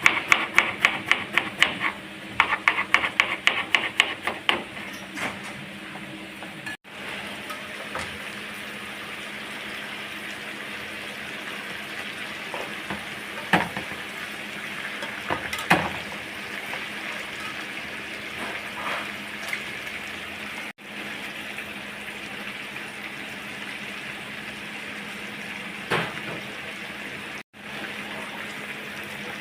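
Rapid, evenly spaced knocking strikes, several a second, for the first few seconds, like food being chopped or pounded. Then steady frying sizzle with a few light clinks of utensils.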